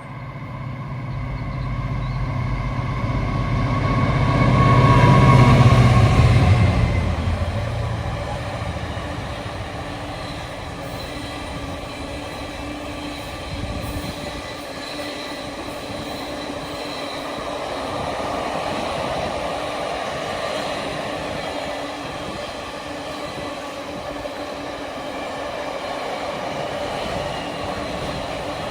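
Diesel-hauled freight train passing: the locomotive's engine is loudest about five to six seconds in, then the long rake of wagons rolls by with a steady rumble and rail clatter.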